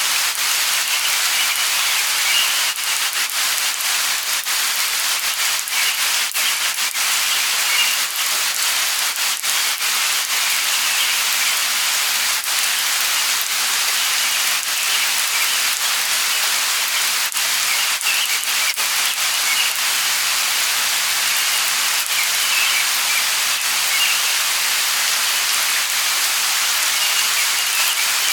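Steady light rain falling, an even hiss of drops. Faint short bird chirps come through now and then.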